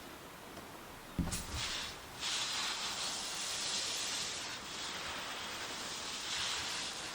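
A low thump about a second in, then a steady spraying hiss that dips briefly twice and keeps going.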